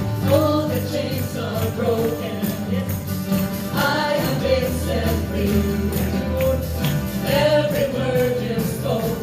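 Worship song: voices singing a melody over a band with steady bass and a regular beat, with jingling percussion like a tambourine.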